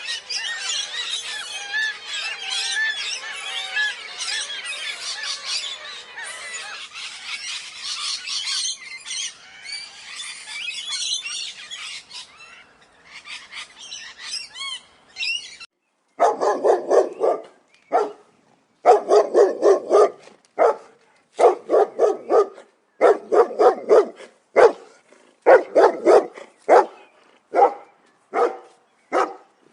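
Many small birds chirping at once in a dense chorus, thinning out a little before halfway, then a dog barking over and over in short runs of barks for the rest of the time.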